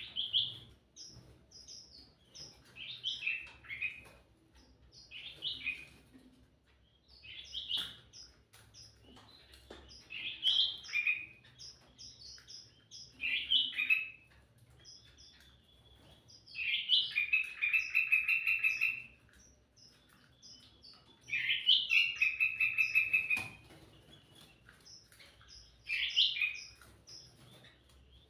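Kutilang mas bulbul singing loudly and steadily: short phrases of bright, fluting notes come every two to three seconds. Two longer phrases of fast repeated notes last about two seconds each, a little past halfway.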